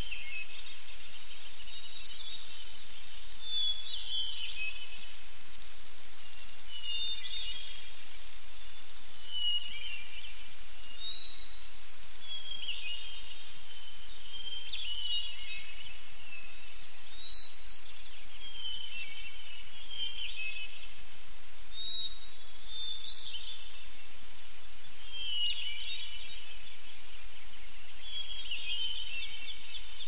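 Songbirds singing short chirping phrases every second or two over a steady background hiss.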